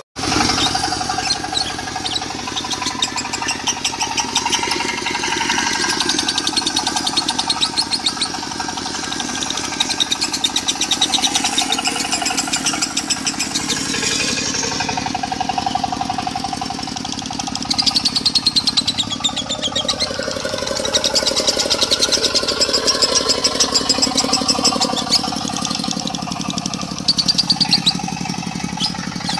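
Lovebirds singing a long, unbroken 'konslet' song of rapid high chattering. Under it runs the steady sound of a diesel engine. The sound drops out for a moment at the very start.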